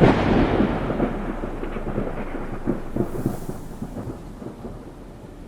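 Thunderclap: a sudden loud crack, then a crackling rumble that slowly fades away.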